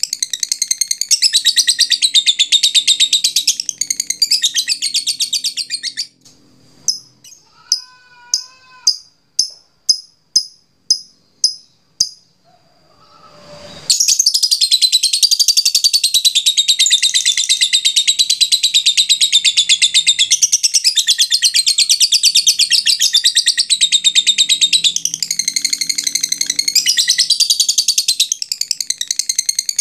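Lovebird giving its long, rapid chattering trill (ngekek panjang). About six seconds in, the chatter breaks off for a run of about ten sharp ticks, roughly two every second (the 'ngetik' notes), then the long chatter resumes.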